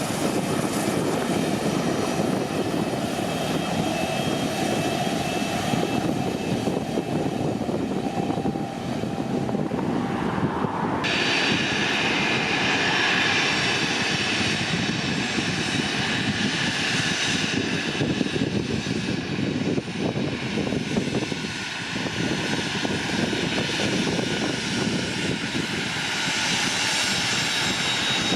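Turbofan engines of a small twin-jet military business jet running, a steady rushing engine noise; about eleven seconds in the sound changes abruptly to a brighter, higher rush with a faint whine.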